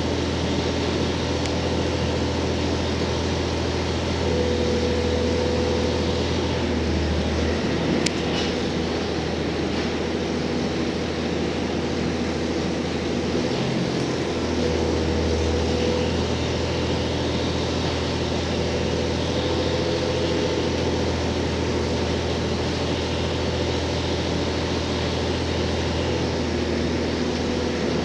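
Interior running sound of a JR Hokkaido H100 diesel-electric railcar underway: a steady low drone from the diesel generator engine, with steady rolling noise from the wheels and rails. The low drone changes briefly about 7 and 14 seconds in, and faint steady tones come and go above it.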